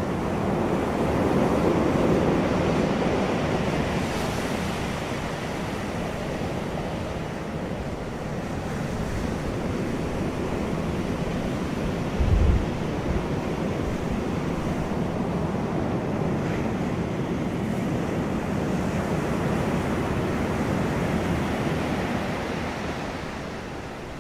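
Wind and surf: a steady rushing that swells and eases in long waves, with one brief low thump of wind on the microphone about halfway through.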